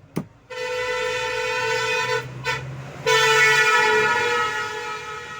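Vehicle horn sounding two long steady blasts, the second louder, after a short click at the start.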